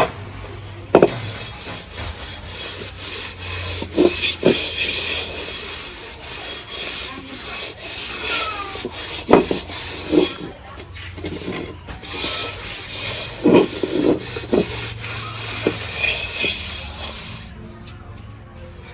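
Continuous rasping, scraping noise with many small clicks and a few soft knocks. It starts about a second in and stops shortly before the end.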